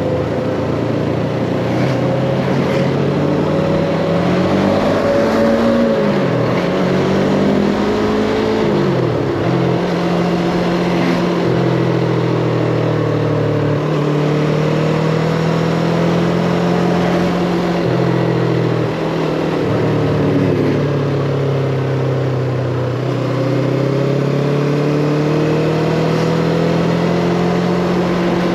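Yamaha MT-25's 250 cc parallel-twin engine running under way, revving up and dropping back a few times in the first ten seconds, then holding a fairly steady pitch with slow rises and falls, over a steady rush of wind and road noise.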